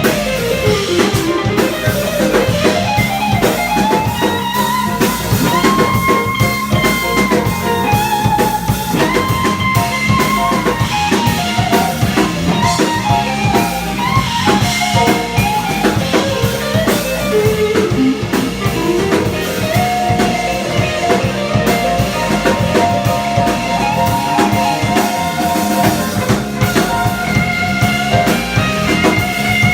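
Live jazz band of guitar, piano, upright-style bass and drum kit playing: a single melodic line winds up and down over a steady drum kit groove and bass.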